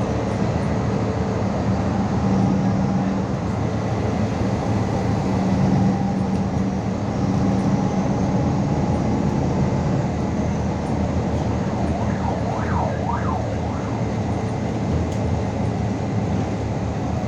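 MAZ 216 articulated city bus driving: a steady engine drone with road noise.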